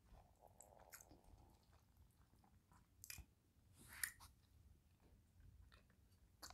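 Faint close-up chewing of soft food, a forkful of turkey meat and rice, with small wet mouth clicks. A brief louder sound about four seconds in.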